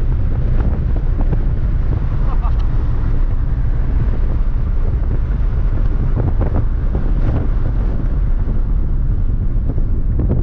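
Steady low rumble of wind buffeting the microphone, with a vehicle running underneath it.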